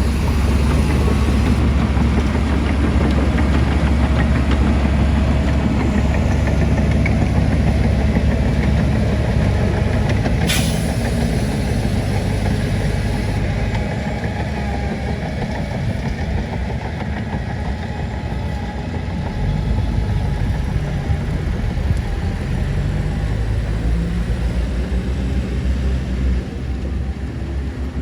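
Heavy diesel earthmoving machinery running: a loud, steady low engine rumble that eases a little partway through and picks up again. There is one brief sharp clank or squeal about ten seconds in.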